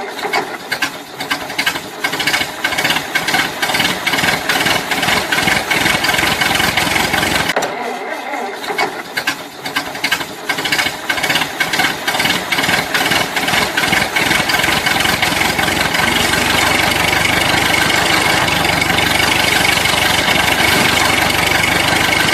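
Engine-like running sound with a rapid, dense rattle of clicks. It breaks off briefly about a third of the way in, then runs on and turns steadier and more even for the last several seconds.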